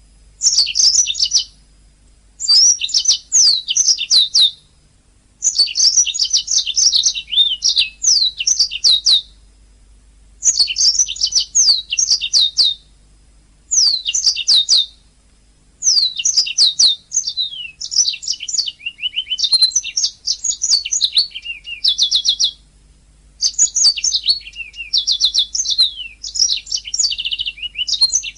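Domestic canary singing: fast trills and repeated chirps in phrases a second or more long, broken by short pauses.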